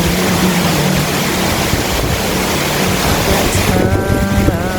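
Gusty wind blowing hard, buffeting the microphone: a loud, steady rushing noise with a low rumble. Near the end, a short pitched sound rises over it and drops in pitch.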